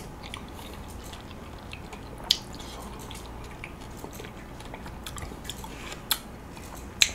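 Close-miked chewing of soft, juicy gold kiwi flesh, with small wet mouth clicks and a spoon scooping flesh from a kiwi half. A few sharper clicks stand out, one about two seconds in and two near the end.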